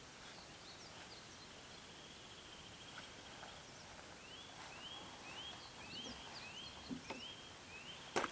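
Small bird calling: a steady high trill, then a short rising call repeated about twice a second, with faint higher chirps. A single sharp knock near the end.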